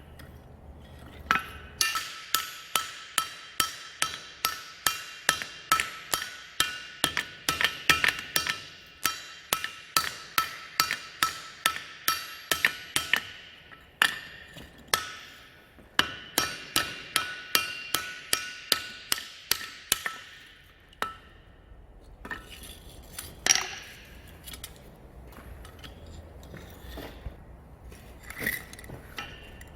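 Blacksmith's hammer striking steel on an anvil in steady runs of about two to three blows a second, each blow followed by a bright metallic ring. The runs break off about halfway through, and the blows come sparser and more irregular near the end.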